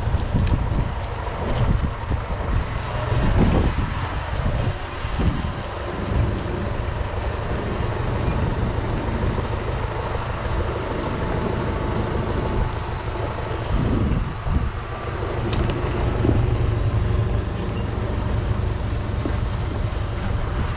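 Universal 650 tractor's diesel engine running with a steady low drone, with a few brief rattles and knocks from the machinery.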